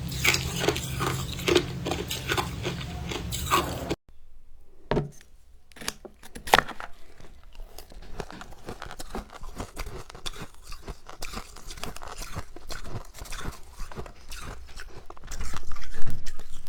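Close-up crunching and chewing of soft, powdery freezer frost. At first the crunches come in a regular rhythm of about three a second. After an abrupt cut about four seconds in, the crunching is quieter and irregular, growing louder again near the end.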